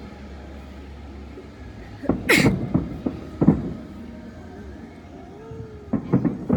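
Fireworks going off: a sharp crack with a bang about two seconds in, another bang a second later, and a quick run of bangs near the end.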